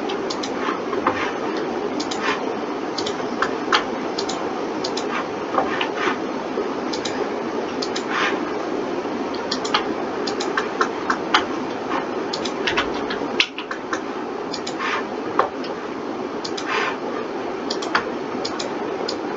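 Irregular clicks of a computer mouse and keyboard, sometimes several a second, over a steady low hum.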